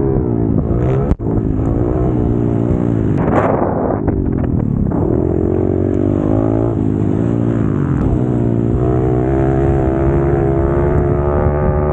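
Pit bike engine at racing speed, its pitch rising and falling over and over as the rider works the throttle through the track. There is a brief cut in the sound about a second in.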